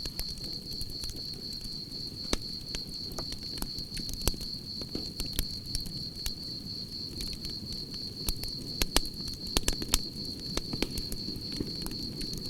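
Campfire crackling, with sharp pops scattered throughout and a cluster of louder ones near the end. Behind it, crickets chirp in a continuous high trill.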